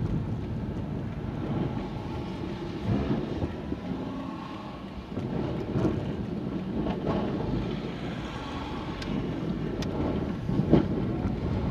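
Car driving in high wind, heard from inside the cabin: a steady low rumble of engine and road with wind buffeting, and a few short knocks.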